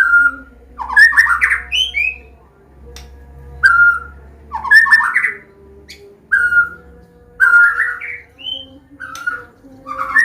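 Medan-type white-rumped shama (murai batu) singing its varied 'combination' song: short clear whistled notes followed by rich, warbling phrases, repeated every second or two.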